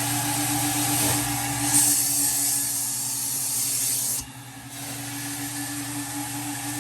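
Hot-water carpet extractor running, its motors humming steadily under a hiss of spray and suction from the wand. The hiss grows louder about two seconds in and drops away a little after halfway.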